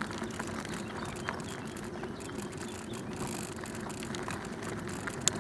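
Bicycle riding along a canal towpath: steady tyre rumble with scattered small clicks and rattles, one sharper tick near the end.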